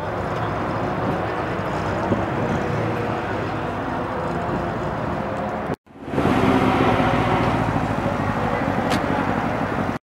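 Engines of classic rally cars idling and running slowly, with people talking nearby. The sound drops out briefly about six seconds in, then returns louder as a car drives slowly past.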